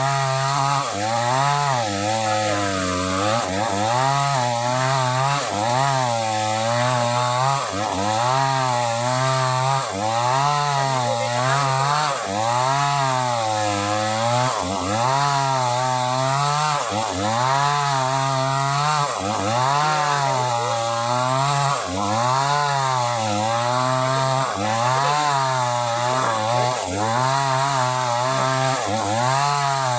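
Sumura CS6500S two-stroke chainsaw running hard while cutting through old sobsi wood. Its engine pitch repeatedly dips and climbs back, about once every second or two. The saw sounds strained under the load of the cut.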